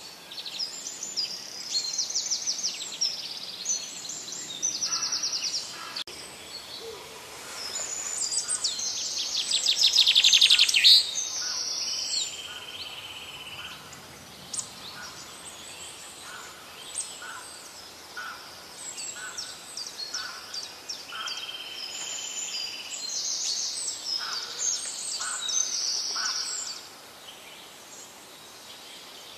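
Birds chirping and singing, with many quick high trills and a couple of held buzzy notes; loudest about a third of the way through.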